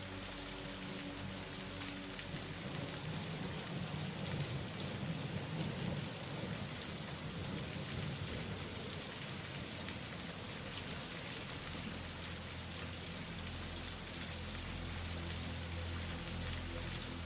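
Steady rain falling, with a low rumble building in about two seconds in and fading out by about eight seconds. Soft held low tones of background music drop away near the start and return near the end.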